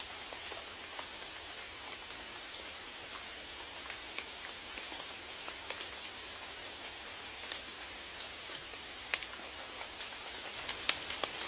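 Steady rain: an even patter with scattered individual drops ticking on a surface, one louder drop near the end.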